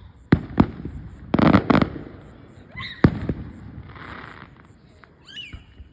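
Fireworks going off: two sharp bangs in quick succession, then a crackling cluster about a second and a half in, and another single bang about three seconds in.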